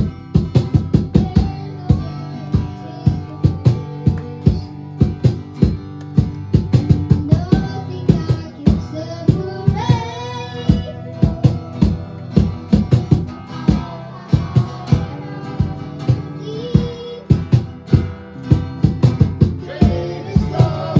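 Live worship band music: a strummed guitar and drums keeping a steady beat, with a singer's voice coming in and out over it.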